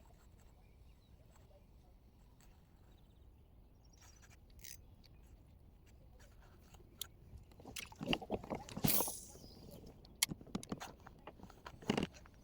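Quiet outdoor background, then from about eight seconds in a cluster of sharp clicks, knocks and rustling, as of gear being handled, with a brief swish near the nine-second mark.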